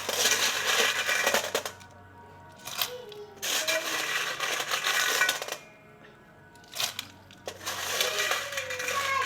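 Shellfish in their shells clattering against each other and the pot as they are stirred in boiling water, in three bursts of about two seconds each.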